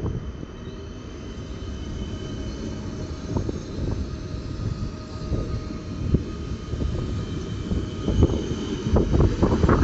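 Electric multiple unit train running along the platform: a steady low rumble of wheels on rails with a faint high whine. Scattered knocks of wheels over rail joints get louder and come closer together near the end.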